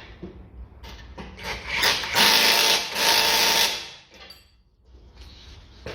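Power ratchet running for about two seconds, tightening a 16 mm suspension bolt, after a few short clicks as the tool is fitted.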